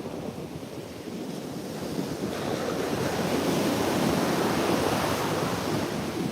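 Ocean surf on the beach: a wave builds about two seconds in, is loudest a couple of seconds later, then eases off, with wind on the microphone.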